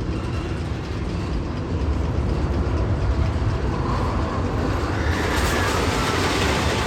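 Roller coaster train rumbling along its track, with a louder rushing noise and faint high squeals building from about five seconds in.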